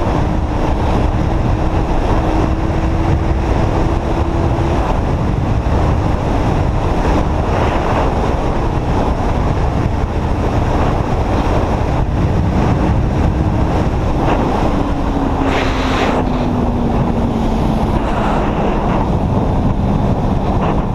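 Wind rushing over the microphone of a riding Kawasaki Z800, with the bike's inline-four engine note running steadily underneath. About two-thirds of the way through, the engine note drops and keeps falling slowly as the bike eases off.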